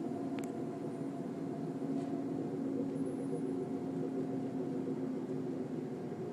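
A steady low droning hum with several held tones over a faint rushing noise, unchanging in level, like a distant aircraft or machine drone.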